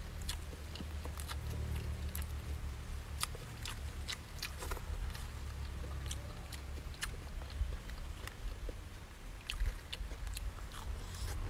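Close-miked mouth sounds of a man eating grilled fish and rice by hand: chewing with irregular wet smacking clicks, over a low steady rumble.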